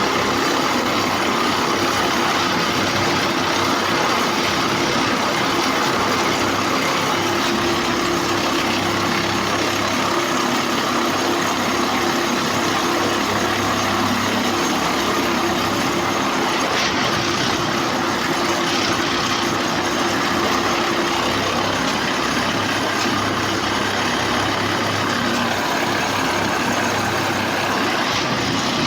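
Diesel engine of a railway points-and-crossing tamping machine (PCTM) running at work, a loud steady mechanical drone. A steady hum under it stops about two-thirds of the way through.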